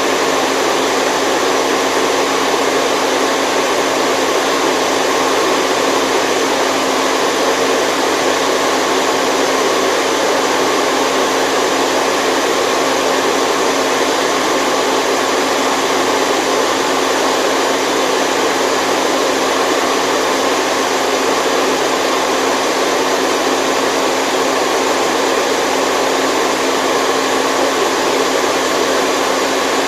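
Continuous white-noise hiss, steady and unchanging, with a faint low hum beneath it.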